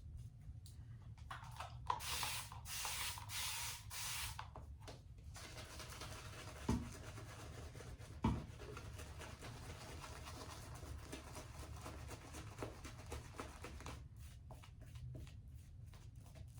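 Shaving brush working lather, its bristles rubbing and swishing against the soap. The strokes come in separate bursts at first, then as a steady brushing hiss with two light knocks, and quicken into short rapid strokes near the end.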